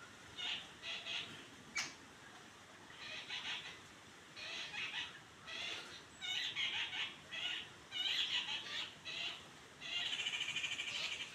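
Birds calling: a run of short, repeated chattering calls, with a longer rattling trill about ten seconds in.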